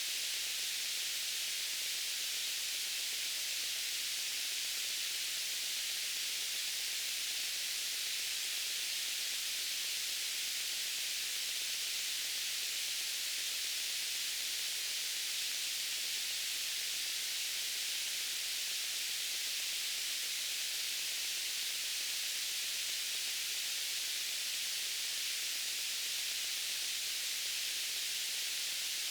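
Steady white noise: an even, unbroken hiss, brightest in the treble and thin in the bass.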